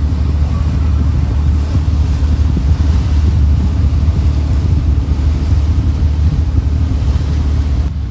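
A ferry's engine running steadily, a loud low drone, with wind buffeting the microphone.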